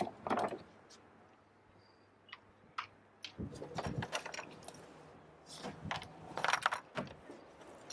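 Light clicks, rattles and rubbing from handling the slide seat and its tracks in a sculling rowboat during cleaning. There are scattered single clicks, with two longer stretches of rattling and rubbing in the middle.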